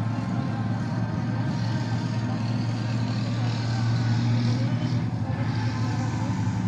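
A steady low engine hum under an even wash of background noise, with no clear change or single loud event.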